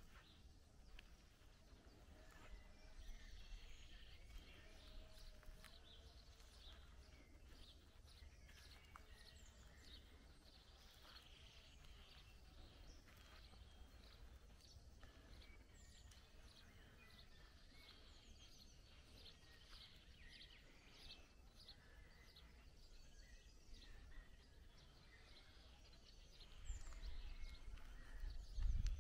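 Faint birdsong, many short chirps and trills, over a low rumble that grows louder near the end.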